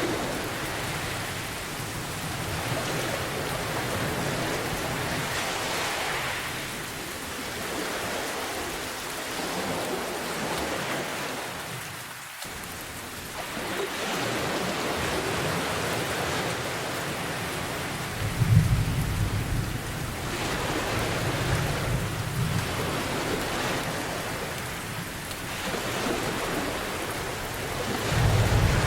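Steady rain with rolling thunder. The thunder rumbles about eighteen seconds in, where it is loudest, again a few seconds later, and once more near the end. The rain dips briefly about twelve seconds in.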